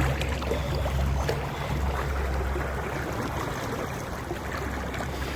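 Car engine and road noise heard from inside the cabin while driving: a steady low drone under a constant rushing hiss.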